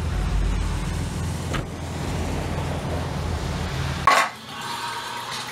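Car engine idling with a steady low rumble; about four seconds in a single loud sharp thump, after which the rumble stops.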